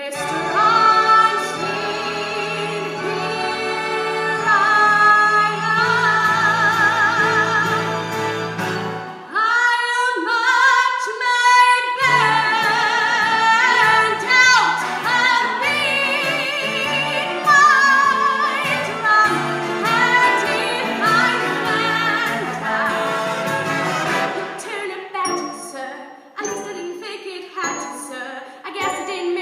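A woman singing a Broadway show tune with strong vibrato over instrumental accompaniment, reaching sustained high notes partway through.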